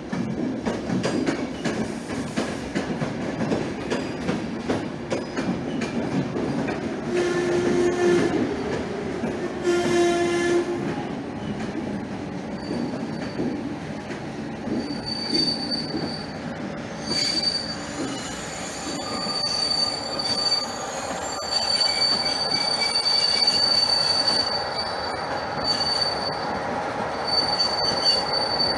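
Passenger train running past with a continuous rumble of wheels on track. It gives two short horn blasts, about seven and ten seconds in, and a high-pitched wheel squeal comes and goes through the second half.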